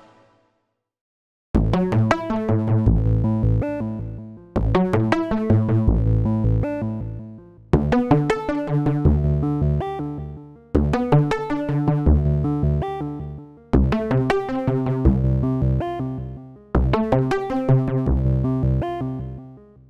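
Atmorph additive/FM software synthesizer in Reaktor 6 playing a sequenced pattern with bass and percussive notes. It starts after a short silence, then restarts with a sharp attack about every three seconds and fades each time.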